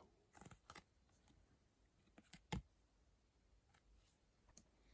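Near silence with a few faint clicks and taps of small items being handled, the sharpest about two and a half seconds in.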